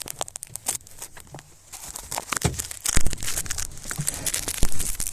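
Thin plastic drink bottle crinkling and crackling as it is squeezed and handled, with a couple of dull knocks partway through.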